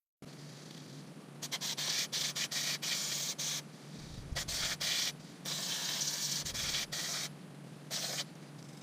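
Aerosol carburetor cleaner sprayed in short and longer hissing bursts onto the oily, sludge-caked front sprocket area of a Suzuki DL250 motorcycle to dissolve the grime.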